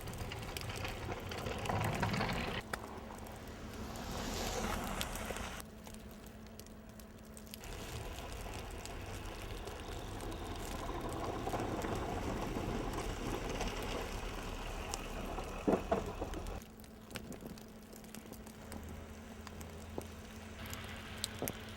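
Blizzard wind gusting across the microphone: a rushing noise with a low rumble that swells and eases. A few short knocks come through, the loudest about two-thirds of the way in.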